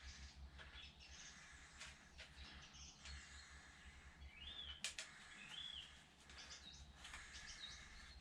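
Faint birdsong: scattered chirps and short warbling notes over a low steady hum, with a single sharp click about five seconds in.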